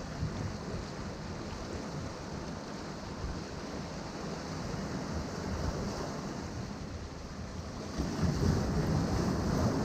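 Ocean surf washing over rocks as a steady rush of water, with a louder wave surging in about eight seconds in.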